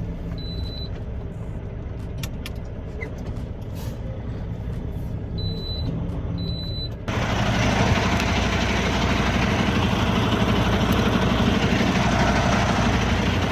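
Semi-truck diesel engine running steadily, with a few short high beeps. About halfway through, a loud, steady rushing noise sets in suddenly and continues.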